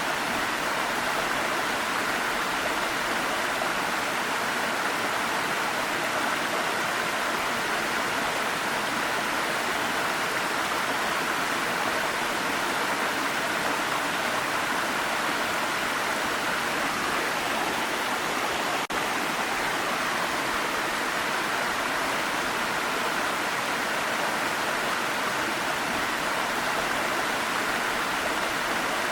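Waterfall running, a steady, even rush of falling water with no change in level, apart from a momentary dip about two-thirds of the way through.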